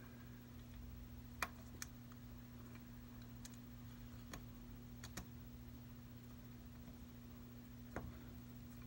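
Faint, scattered small clicks and ticks, about half a dozen, as the flex cables of an iPad Pro's replacement screen are bent down and worked toward their connectors, over a steady low electrical hum.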